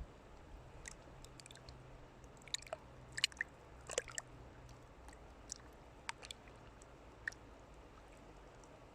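Scattered faint clicks and crackles, most of them bunched together in the first half, over a low steady hum.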